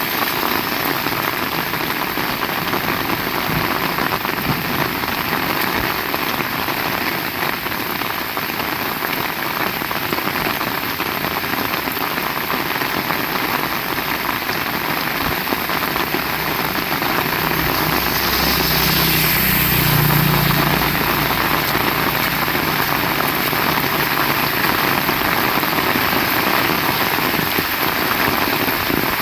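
Heavy rain falling steadily in a dense hiss. About two-thirds of the way through, a low rumble swells and fades over several seconds.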